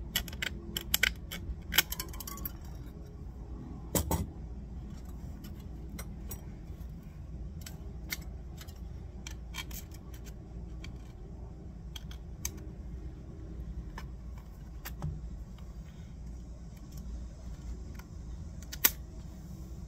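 Sharp metallic clicks and clinks from trimming and handling a thin bent metal strip for a wheel hub. They come in a quick run over the first couple of seconds, with a louder knock about four seconds in, then scattered single clicks.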